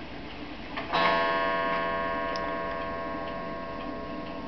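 A metal chime struck once about a second in, ringing on with a steady tone that fades slowly.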